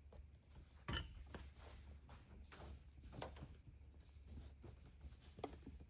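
A few faint clicks and knocks of handling over a low steady hum, the sharpest one about a second in.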